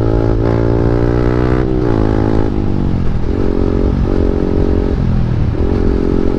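KTM Duke 390's single-cylinder engine, breathing through an Akrapovic exhaust with the dB killer removed, revved and held high, dropping back about two seconds in, then revved and held twice more.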